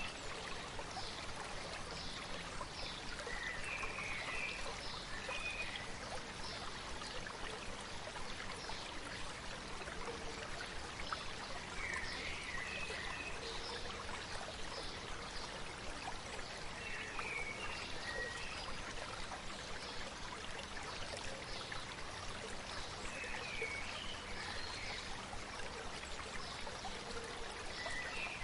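A stream babbling steadily, with a small bird's short chirping phrases repeating every few seconds over it.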